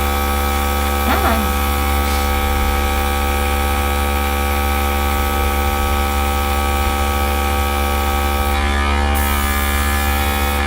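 Electric air gun running steadily: a constant motor hum with a hiss of blowing air, used to push alcohol ink across the paper.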